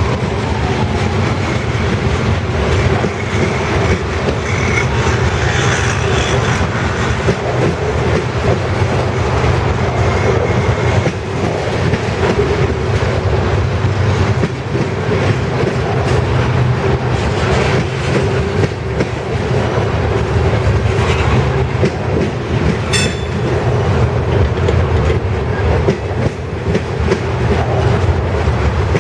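Freight train cars rolling past at speed: a steady low rumble with the clickety-clack of steel wheels over the rail joints, and a sharp click about 23 seconds in.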